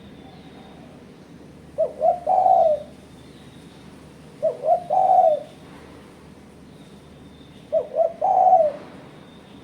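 Spotted dove (tekukur) cooing: three calls about three seconds apart, each two quick short coos followed by a longer, drawn-out coo.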